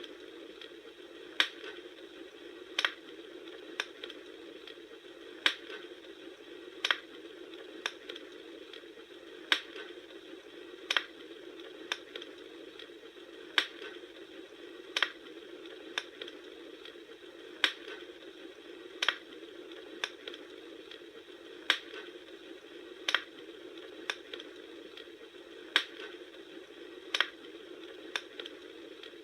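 Campfire crackling: sharp pops and snaps at an even pace of about one every second and a half, over a steady low rushing hiss.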